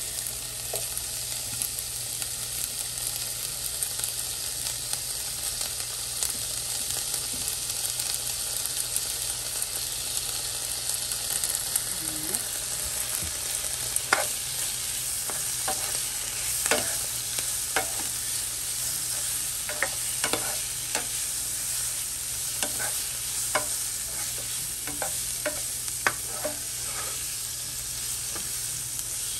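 Sliced onions and bell peppers frying in a nonstick skillet, with a steady sizzling hiss. From about halfway on, a slotted spoon stirs them, adding irregular clicks and scrapes against the pan.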